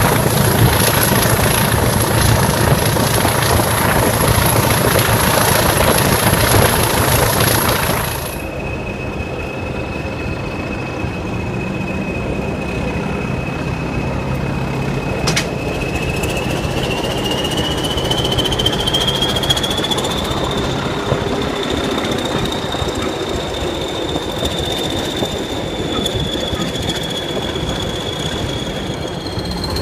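Heritage diesel train heard from an open carriage window while running: loud engine and wheel noise, which drops to a quieter run about eight seconds in. A steady high whine then slowly rises in pitch, with one sharp click partway through.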